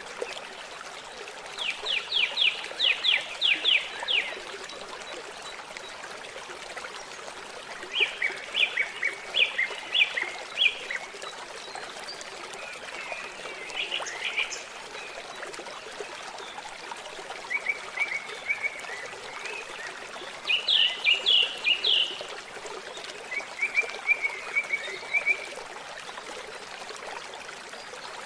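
A songbird singing short, rapid trilled phrases, about six of them every few seconds, over a steady wash of running water.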